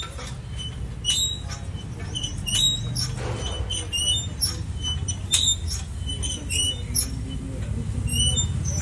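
Many short, irregular high squeaks or chirps over a steady low machine rumble.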